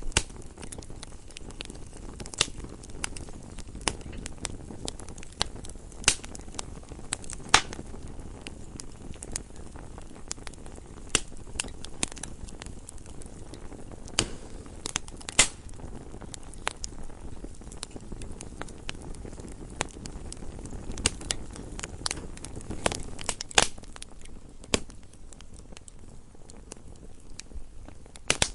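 Wood fire burning in a fireplace: a low steady rumble of flames with irregular crackles and sharp pops of the burning logs, a few much louder than the rest.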